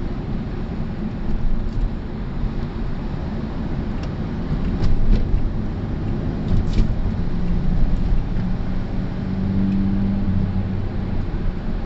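A car driving: a steady low rumble of engine and tyres, with a few short clicks in the middle and a steady low hum coming in during the second half.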